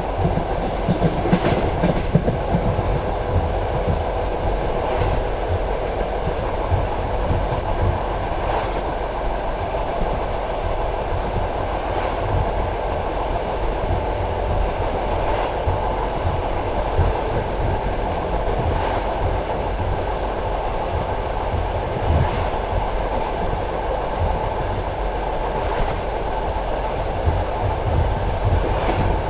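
Passenger train carriage running along the track, heard from inside: a steady rumble and hum from the wheels and running gear, with a sharp clack about every three and a half seconds as the wheels cross rail joints.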